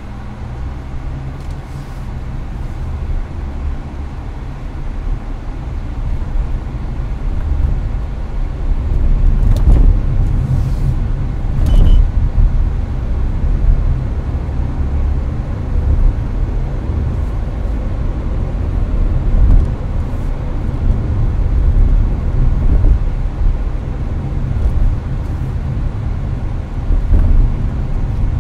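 Road and engine rumble inside the cabin of a Hyundai Avante cruising on a highway, with the air conditioner's fan blowing steadily. The rumble grows louder over the first several seconds, and a few faint clicks sit on top of it.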